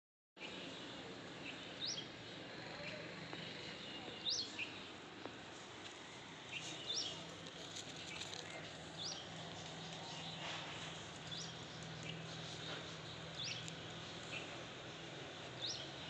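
A bird's short rising chirp, repeated seven times at an even pace of about one every two and a half seconds, over a steady low hum.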